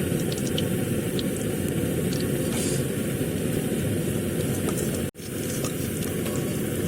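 Chicken and vegetable pakoras deep-frying in hot oil: a steady, low, bubbling sizzle with scattered faint crackles. It breaks off for an instant about five seconds in.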